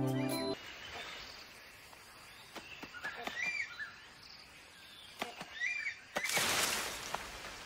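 Tropical forest ambience in which a bird repeats a short, chirped call several times, after the last half second of a background music cue. About six seconds in, a loud rush of rustling noise lasts roughly a second.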